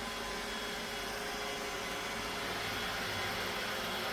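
Roomba robot vacuum running, a steady whirring hum with a faint steady tone over it.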